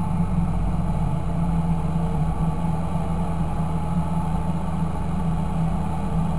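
Fendt 926 Favorit tractor's six-cylinder diesel engine running at a steady speed, with a deep even drone.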